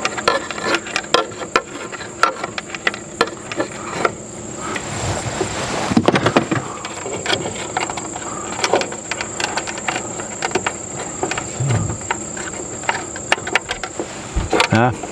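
Steady high insect drone, cricket-like, with many sharp clicks and light knocks of hand work on small parts running through it.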